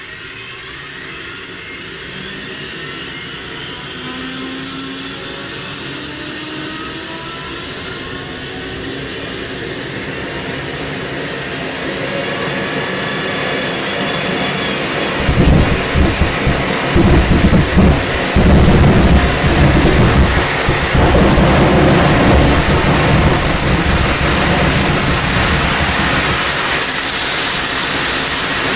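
Homemade KJ66-type model turbojet auto-starting. A brushless electric starter motor spins it up with rising whines. About fifteen seconds in, the fuel lights with an uneven, lumpy rumble, and the engine then spools up into a steady jet roar with a whine still climbing in pitch.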